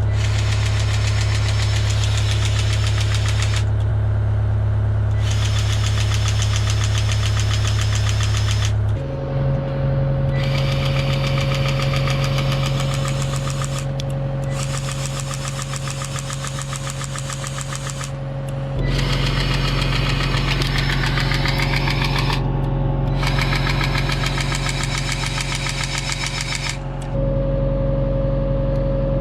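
Cat 272D3 skid steer's diesel engine running at a steady speed, with a low drone and light knocking clatter; its tone shifts abruptly about a third of the way in, again about two thirds in, and near the end.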